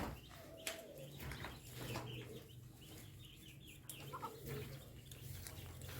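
Newly hatched Muscovy ducklings peeping faintly in short scattered chirps, over a low steady hum.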